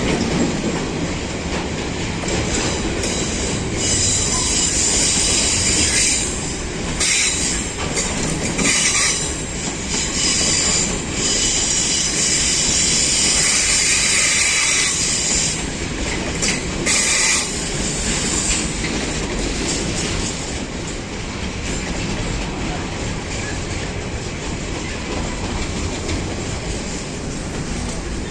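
A train running past on the track, with a steady rumble of wheels on rail. A high hiss swells about four seconds in and comes and goes until it fades after about eighteen seconds.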